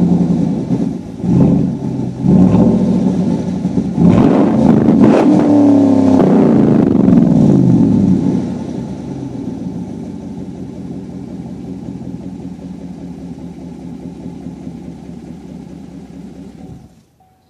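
2014 Chevy Silverado exhaust through a 3-inch straight-piped catback, being revved in place: a few quick throttle blips, then a longer rev that rises and falls, settling to a steady idle that cuts off sharply near the end.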